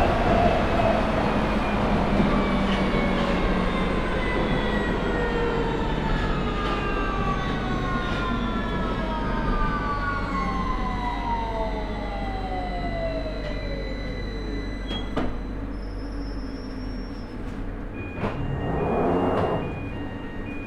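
Victoria line 2009 stock (Bombardier Movia) traction motors whining in several falling tones as the train brakes into a station, the whine dying away about three quarters of the way through as it comes to a stop. A short hiss follows near the end.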